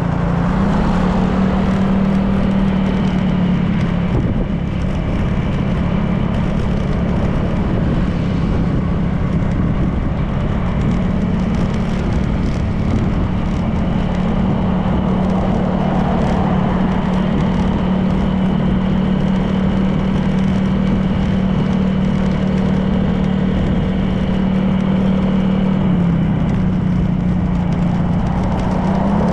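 Honda PCX 160 scooter's single-cylinder engine running at a steady cruise, with road and wind noise. The engine note rises slightly about a second in and dips briefly near the end before picking up again.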